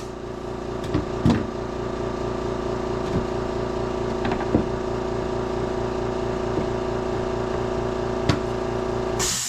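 A machine motor running steadily with a strong, even hum, with about half a dozen sharp clicks or knocks over it. It cuts off near the end with a brief hiss.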